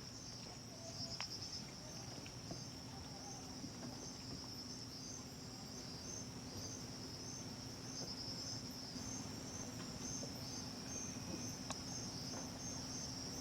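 A steady, high-pitched chorus of night insects trilling in pulses, with a faint low hum beneath it.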